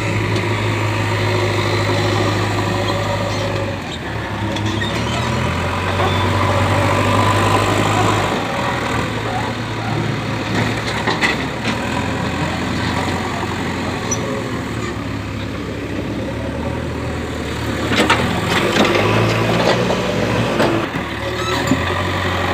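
JCB 3DX backhoe loader's diesel engine running under changing load, its note stepping up and down every few seconds as it works. A few sharp knocks come about two-thirds of the way through.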